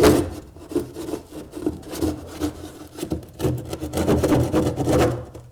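Irregular scraping and rubbing as the tough roofing underlay foil is cut and torn through by hand at the edge of a cut opening in the roof boarding.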